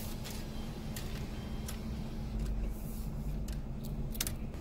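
Car engine idling, heard from inside the cabin as a steady low hum, with a few faint clicks scattered through it.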